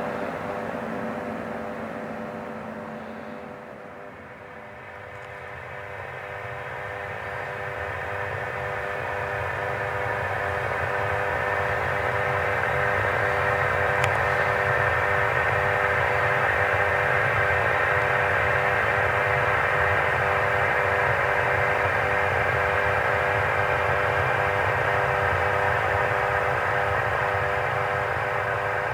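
Aircraft engines running with a steady multi-tone whine over a low rumble. The sound fades to its quietest about four seconds in, then grows louder and holds steady.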